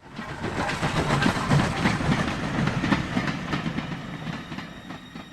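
OO gauge model train running on its track, wheels clicking irregularly over the rail joints under a steady rumble, fading away near the end.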